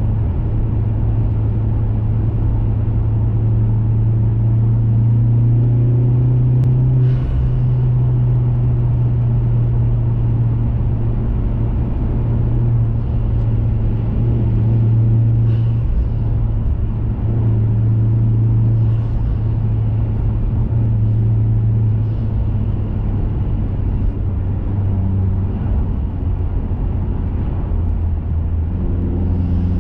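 2021 Mazda 3 Turbo's turbocharged 2.5-litre four-cylinder, fitted with an aftermarket cat-back exhaust and high-flow intake, running at cruise with a steady low drone. The engine note steps in pitch several times as speed and load change.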